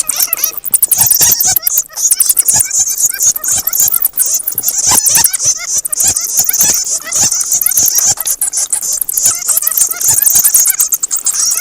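Bats squeaking and chattering: a dense, continuous chorus of rapid high-pitched squeaks and chirps, mixed with many sharp clicks.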